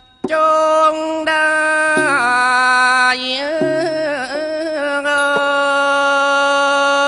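Thai classical music: a sustained melodic line of held notes that waver and bend in pitch a couple of seconds in, over a low steady tone, with a light percussion tick near the end.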